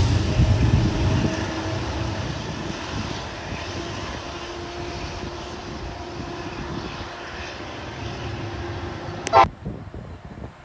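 A train rumbling past and fading away, leaving a steady lower whine. A brief, loud, rising squeak sounds near the end.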